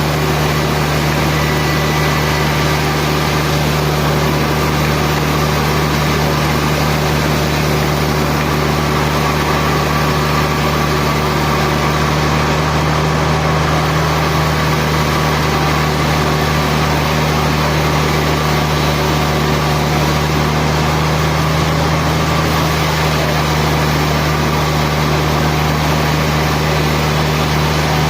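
Sawmill machinery running steadily: a constant motor hum that neither rises nor falls.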